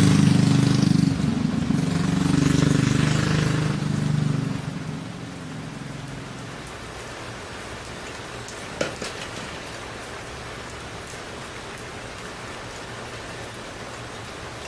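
Rat rod mini bike's small engine running, then dying away about four to five seconds in, leaving a steady hiss of heavy rain. A single sharp click sounds about nine seconds in.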